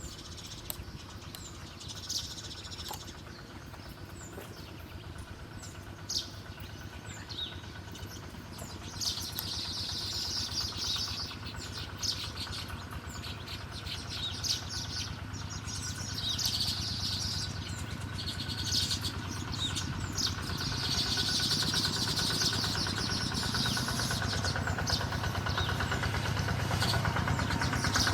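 Small birds chirping in short, high calls over the steady hum of an engine running, which grows louder over the second half.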